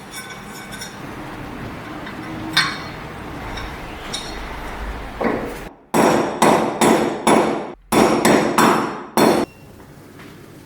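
Hammer blows on metal during the grinder restoration: about nine loud strikes in two quick runs, roughly three a second, in the second half. They follow a few light metallic clinks.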